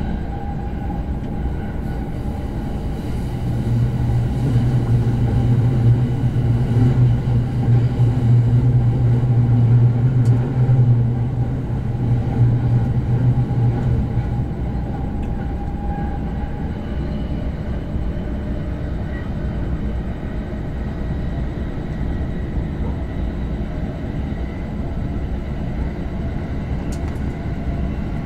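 Running noise of a moving electric commuter train heard from inside a passenger car: a steady rumble of wheels on rail, with a louder low drone swelling from a few seconds in until about halfway through.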